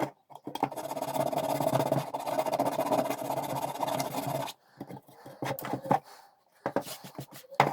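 A small power tool running steadily for about four seconds and stopping suddenly, followed by a few short clicks and knocks.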